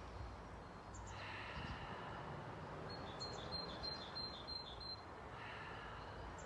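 Birdsong in a garden: a quick run of about seven short high chirps, roughly four a second, about halfway through, with a brief chirp a second in, over faint steady low background noise.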